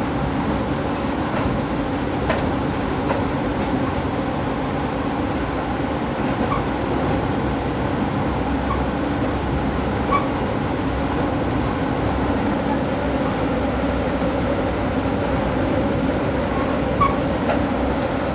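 A passenger train running along the rails, heard from inside the car as a steady rumble of wheels and rails, with a few faint clicks.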